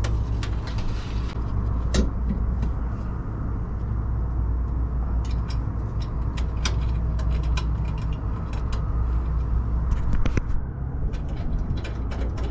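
Scattered light clicks and taps of hand work on small metal parts and screws, over a steady low hum.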